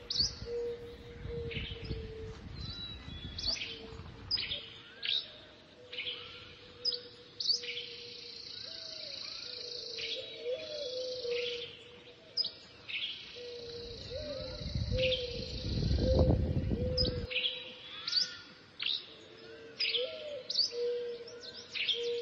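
Mixed birdsong: many short, sharp chirps and whistles from several birds, with stretches of high, even trilling and a low steady note underneath. Light wind gusts on the microphone in the first few seconds and again about two-thirds through.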